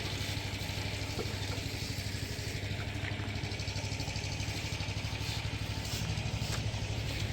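A small engine running steadily at idle, with a low hum and a fast, even pulse, and a few faint clicks over it.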